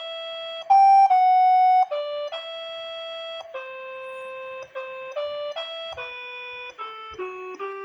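The melody of a waltz played one note at a time in a steady, organ-like electronic tone. Each note is held at an even level and starts and stops abruptly, and there is no accompaniment. A louder, higher pair of notes comes about a second in.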